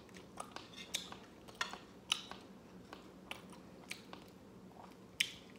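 Close-up chewing and mouth sounds of someone eating scorched rice crust (dukot) by hand: irregular wet clicks and smacks, the sharpest one about five seconds in.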